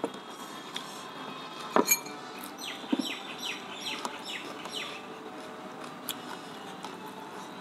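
A bird calling a run of about six quick falling chirps. A sharp clink of tableware comes a little before it.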